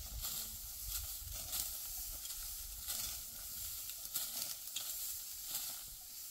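Dry wheat straw rustling and crunching as it is cut and handled, in crisp irregular strokes about once a second, over a low rumble of wind on the microphone.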